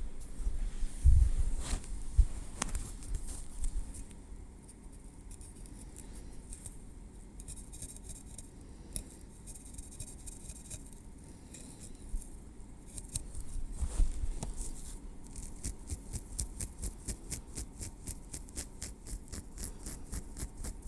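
Metal tweezers clicking and scraping lightly through hair and on the scalp, with a few soft low thumps near the start and again about two-thirds through. In the last several seconds the tweezers give a quick, even run of light ticks, about five a second.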